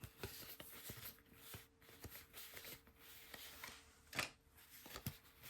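Faint handling of trading cards: soft clicks and rustles as cards are flipped and slid over one another, with a slightly louder click about four seconds in.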